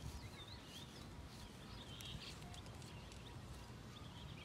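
Faint bird calls, short chirps and warbles, over a low rumble of wind on the microphone.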